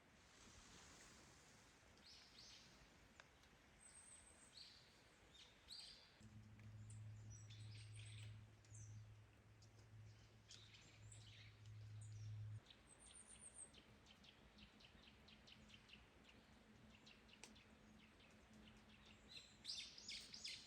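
Faint, scattered bird chirps over quiet forest ambience, growing busier near the end. A steady low hum runs from about a third of the way in to past the middle.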